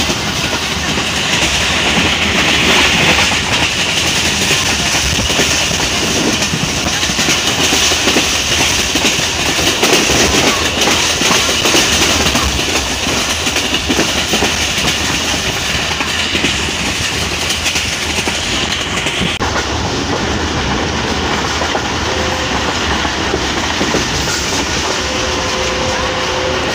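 Subak Raftar Express passenger train running along the main line: a steady loud rumble with wheels clattering over the rail joints. The higher hiss drops off suddenly about two-thirds of the way through.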